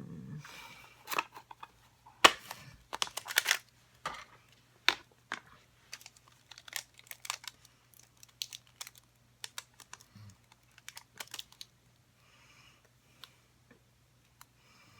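Quick, irregular small clicks and taps of stamps and plastic stamping supplies being handled and set down on a craft table, busiest for the first twelve seconds and thinning out near the end. A faint steady hum runs underneath.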